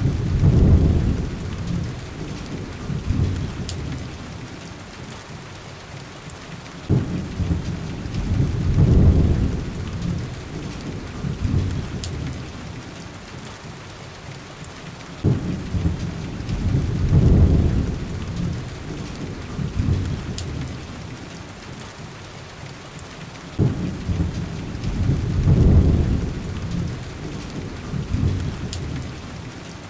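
Heavy rain falling steadily, with low rolls of thunder about every eight seconds. Each roll starts with a sudden crack and swells for a couple of seconds before dying back into the rain.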